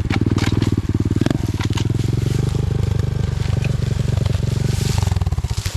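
Dirt bike engine running steadily at low revs, with scattered light clicks over it. The engine note thins out and drops away right at the end.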